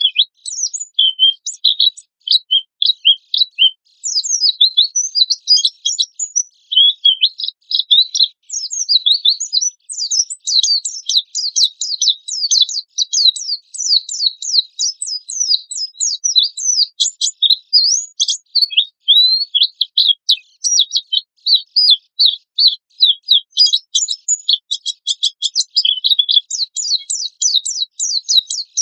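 White-eye (pleci) singing hard and fast: a continuous, rapid stream of high, sharp chirping notes, many sweeping downward, with only brief pauses. This is the harsh rapid-fire 'gacor' song that keepers play to stir caged white-eyes into singing.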